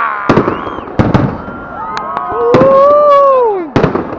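New Year fireworks: sharp bangs of shells bursting overhead, about six of them, several in quick pairs. A long pitched tone in the middle rises slightly and then falls away.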